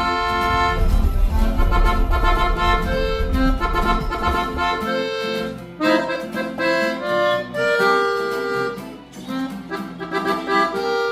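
Accordion-led instrumental music, a lively tune with changing notes and no singing.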